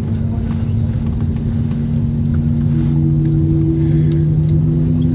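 Airbus A320neo's jet engines heard from inside the cabin: a steady low hum with a few held tones. A higher tone comes in about two and a half seconds in as the level slowly rises, and light clicks and rattles from the cabin fittings sound over it.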